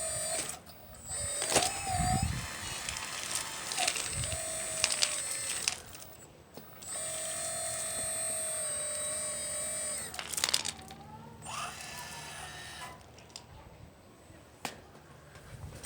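High electric whine of a radio-controlled model's motors, starting and stopping in spurts with brief rises in pitch. It holds steady for a few seconds in the middle, then glides up and fades to a fainter run near the end.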